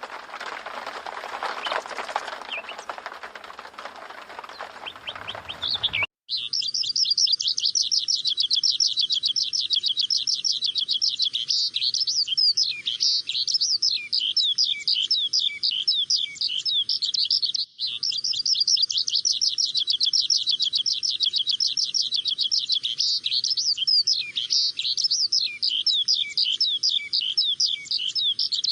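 Many small birds chirping in a dense, unbroken chorus of quick high notes, starting abruptly about six seconds in. Before that, a steady rushing noise.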